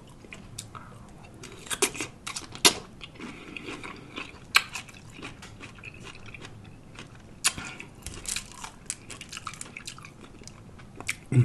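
Close-up chewing and crunching of a lettuce-wrapped sub sandwich, with irregular wet mouth clicks and smacks; the sharpest come about three, five and seven and a half seconds in.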